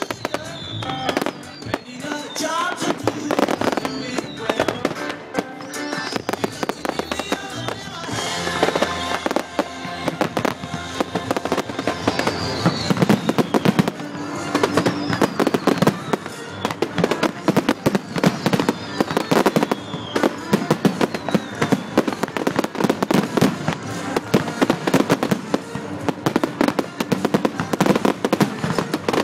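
Fireworks going off in quick succession, sharp bangs and crackles over loud music with singing; the crackling grows denser about halfway through.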